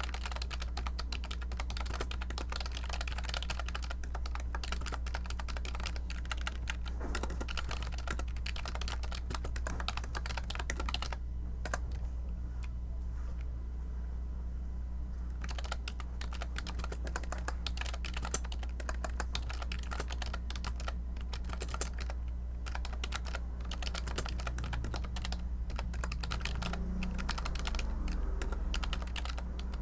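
Computer keyboard typing, fast and continuous, with a pause of a few seconds about halfway through, over a steady low hum.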